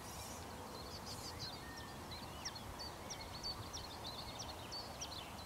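Small songbirds singing: a run of quick, high chirps and short trills, over faint steady background noise.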